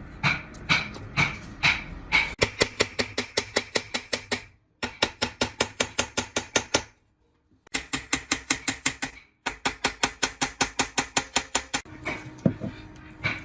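A hammer tapping rapidly on metal, about five sharp strikes a second, in several runs that cut off abruptly into silence and start again.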